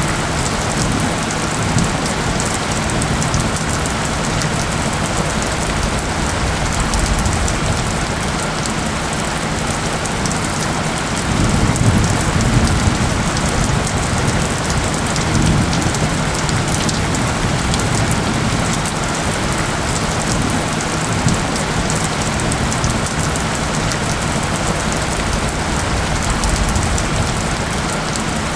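Steady rain falling on a surface, an even hiss with a faint low steady tone beneath it. Low rumbles swell up about twelve and sixteen seconds in.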